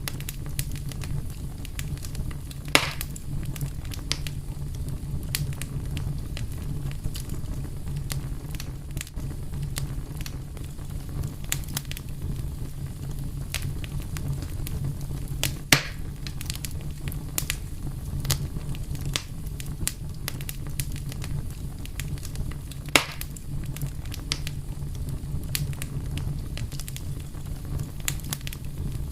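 Wood fire burning with a steady low rumble and constant scattered crackling, with three louder pops at about 3, 16 and 23 seconds in.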